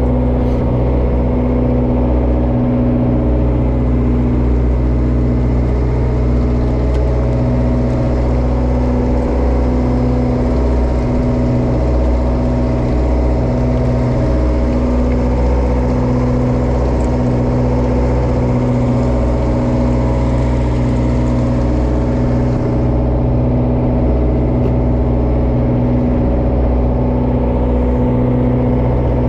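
Bottom trawler's diesel engine running steadily, a constant low hum with no change in speed.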